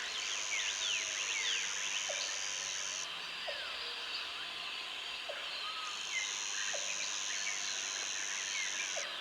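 A chorus of many birds chirping and calling at once outdoors. A steady high-pitched buzz, like an insect, runs for about three seconds at the start, stops, then sounds again for about three seconds near the end.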